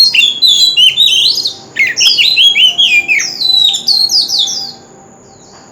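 Oriental magpie-robin singing a rapid, varied song of whistled notes and falling slurs, breaking off about five seconds in.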